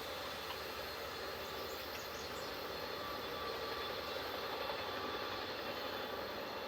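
Steady noise of a train running by on the rails, even and unchanging.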